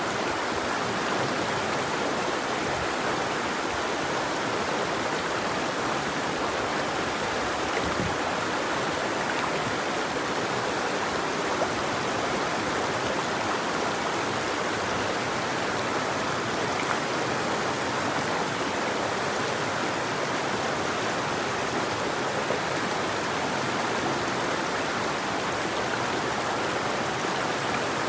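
River water flowing and rushing over rocks, a steady even wash with a few faint splashes.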